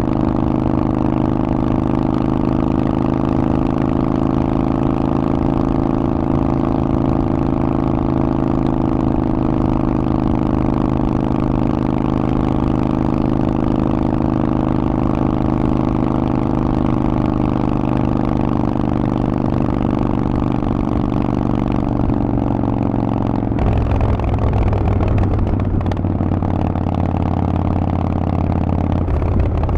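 Harley-Davidson Forty-Eight's air-cooled 1200 cc V-twin running through a Vance & Hines exhaust, a steady, loud note that sinks slowly in pitch. About three-quarters of the way through it changes abruptly to a deeper, rougher sound.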